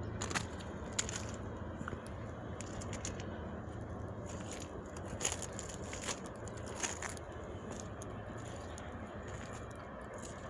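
Steady low rumble with scattered sharp clicks and crackles, like a phone or microphone being handled.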